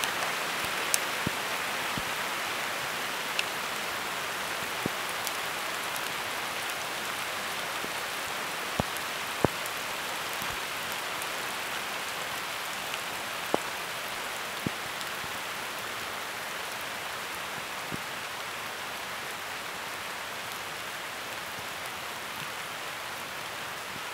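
Steady rain falling on a field of maize and coconut palms: an even hiss with scattered sharp ticks.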